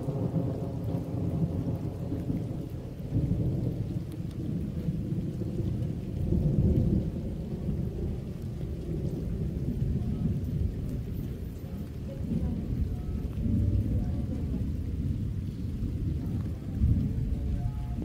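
Rain falling under a low rumble that keeps swelling and fading.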